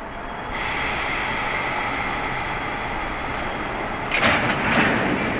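A train at the platform: steady running noise with a high whine that sets in about half a second in. About four seconds in comes a loud, short burst of hiss, like a rush of air.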